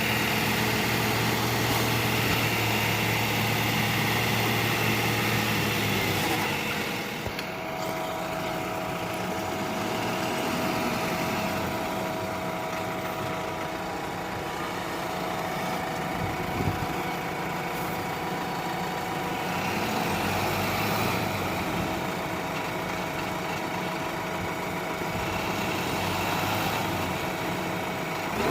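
Heavy diesel engine of a truck or backhoe loader running steadily. A strong low hum drops away about six seconds in, leaving a steadier mid-pitched engine note.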